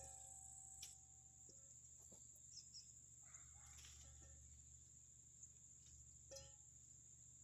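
Faint outdoor ambience: a steady high-pitched insect drone, with a few short bird chirps and a low background hum. Plucked-string music fades out in the first second.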